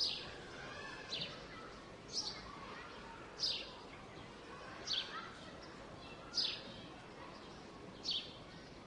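A bird giving the same short, high, down-slurred call over and over, about every second and a half, with softer bird notes and a faint steady background hum of the surroundings.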